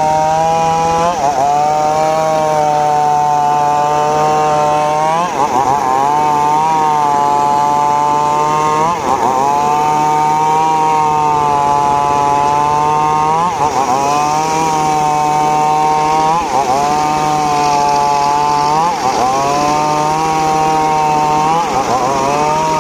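Engine-driven saw cutting teak wood. It runs steadily at a constant pitch, and about every three or four seconds it dips under load as it bites into the wood, then picks back up.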